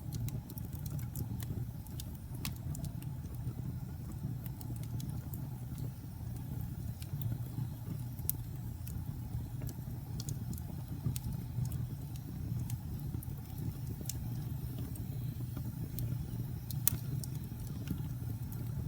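Fire in a fireplace crackling, with frequent sharp pops and snaps over a steady low rumble of the flames.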